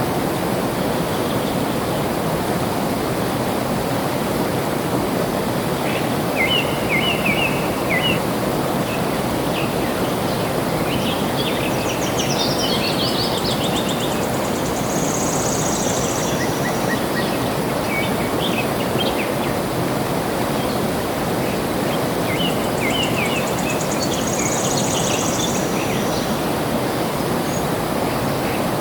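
Steady rushing of flowing water, with birds chirping and trilling over it in several short spells.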